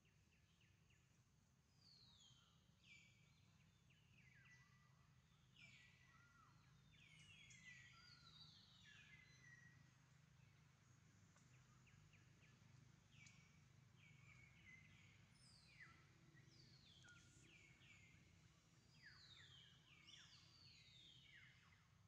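Faint birdsong: many short, descending chirps from several birds, overlapping and repeating, beginning about two seconds in, over a low steady hum.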